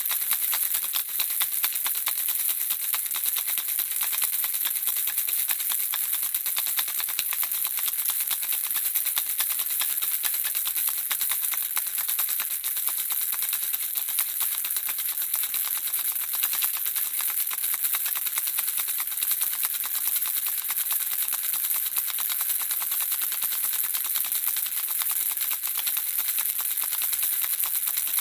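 Baby's handheld rattle shaken without pause, the small objects inside making a steady, dense stream of rapid high-pitched clicks.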